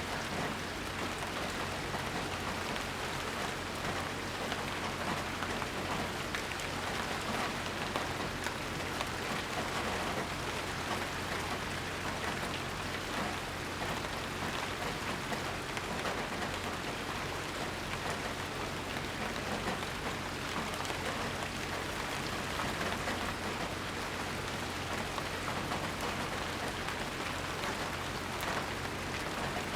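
Steady rainfall, a dense even patter of drops on surfaces with fine individual drop hits through it, no thunder.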